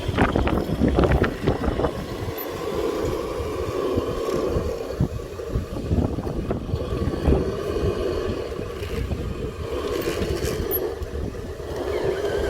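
Radio-controlled model construction machinery at work on asphalt mix: a steady motor whine with scraping and knocks, heaviest about a second in, over wind noise on the microphone.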